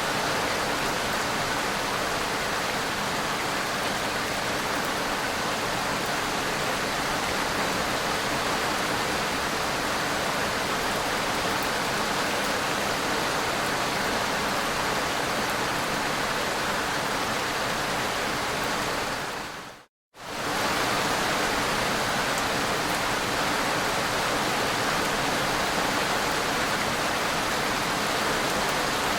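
Heavy rain pouring down in a steady, even hiss, broken by a brief silent gap about two-thirds of the way through.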